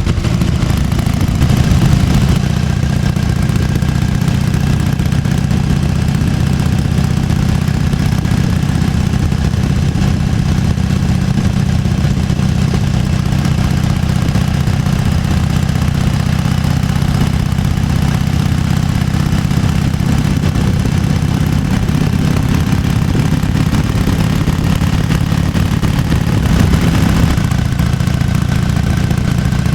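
1998 Harley-Davidson Fat Boy's air-cooled 1340 cc Evolution V-twin idling steadily with its uneven 'potato-potato' beat, briefly louder about two seconds in and again near the end.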